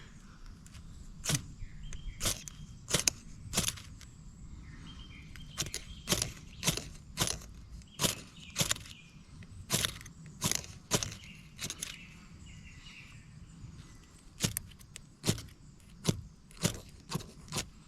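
Ferrocerium rod struck repeatedly with a scraper to throw sparks onto resin-soaked wood shavings: about twenty quick, sharp scrapes in uneven runs, with two short pauses. The tinder is not catching, and the striker slips on the soft ground.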